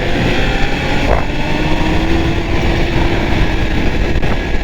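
Arctic Cat Thundercat snowmobile engine running at trail speed, its pitch rising slowly, with heavy wind rush on the microphone.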